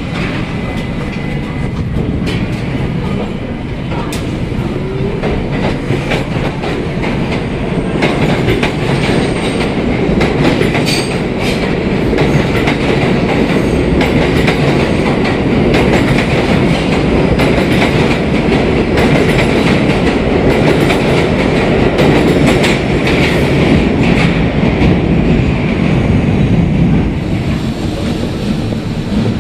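Budd R32 New York City Subway train running along the track, its wheels clattering over rail joints in a steady rumble that grows louder over the first dozen seconds.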